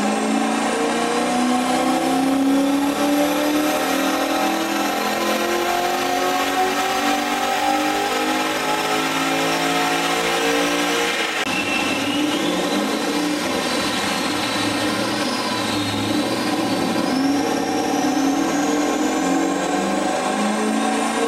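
Holden VE SSV's V8, fitted with an aftermarket cam and X-Force exhaust, running under load on a chassis dyno, its revs climbing slowly with a thin rising whine above the engine note. About halfway through the steady note breaks up into a rougher sound for a few seconds, then the engine note climbs again.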